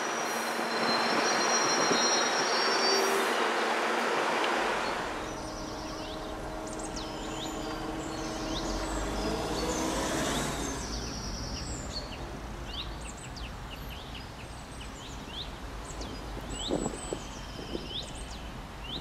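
A passenger train rolling past with a high wheel squeal, cutting off about four to five seconds in. Then birds chirping over a steady low hum.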